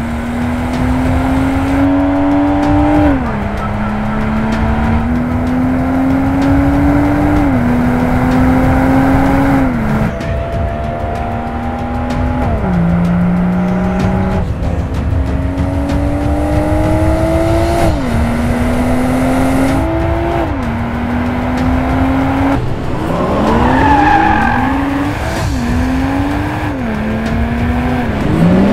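BMW 2 Series Coupe engine and exhaust under hard acceleration: the pitch climbs for two or three seconds, then drops at each upshift, again and again. Near the end the revs rise and fall quickly several times in a row.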